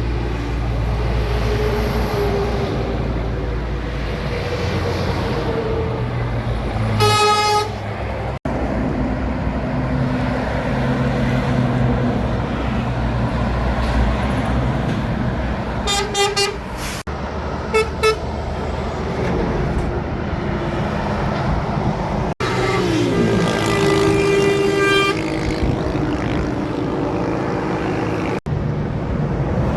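Heavy trucks' diesel engines running past on a highway, with truck horns sounding several times: one blast about seven seconds in, two short toots around sixteen and eighteen seconds, and a longer blast near twenty-three seconds.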